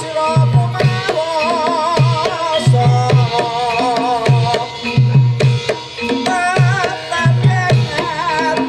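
Live Javanese gamelan music for jaranan, with kendang drums playing groups of quick low strokes over and over under a wavering, vibrato melody line.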